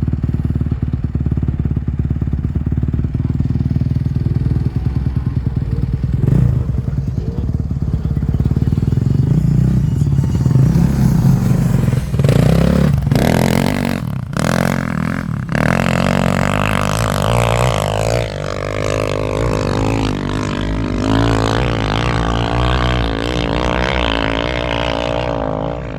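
Dirt bike engine running, steady for the first several seconds and then revving up and down repeatedly, with a few loud sharp blasts partway through.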